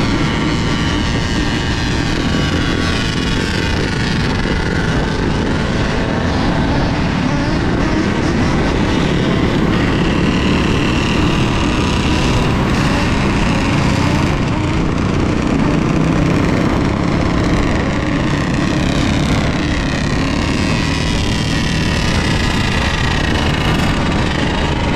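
Wind buffeting a helmet- or bike-mounted camera microphone while riding an electric dirt bike, with the motor's whine rising and falling in pitch.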